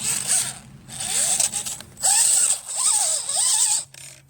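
Redcat Gen7 1/10-scale RC crawler's electric motor and geared drivetrain whining in four bursts as the throttle is worked, the whine rising and falling in pitch over a gritty gear buzz.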